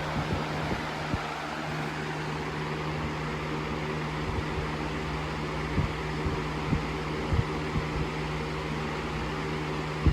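Box fan running steadily: a constant motor hum over the even rush of moving air, with a few brief low thumps scattered through.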